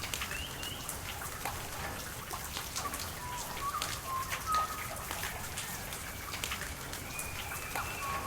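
Steady rain with individual drops pattering, over a low haze of water noise, while birds give short whistled calls several times throughout.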